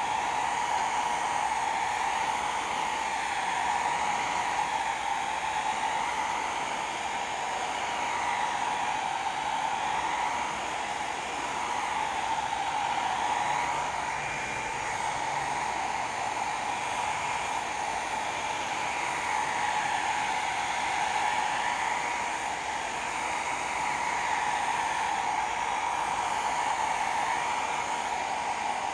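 Hot air rework gun blowing steadily, a continuous fan whoosh with a faint wavering whine above it.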